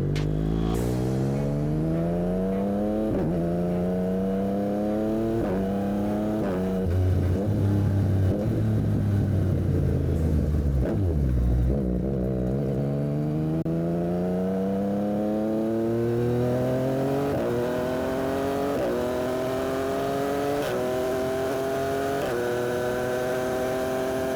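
Yamaha MT-09 SP's 890 cc three-cylinder engine through an aftermarket Dominator exhaust, pulling hard up through the gears with quick upshifts. About a third of the way in it eases off and drops down low, then pulls again through four more quick upshifts.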